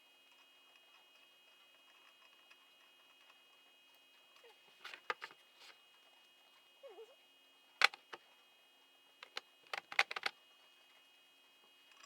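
Metal clicks and clinks of hand tools and engine parts being handled during a YZ85 engine teardown: a few sharp knocks around five seconds in, one loud clink near eight seconds, and a quick cluster of clinks around ten seconds, over a quiet room with a faint hum.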